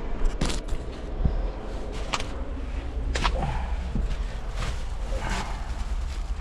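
Footsteps, a few irregular steps about a second apart, over a steady low hum.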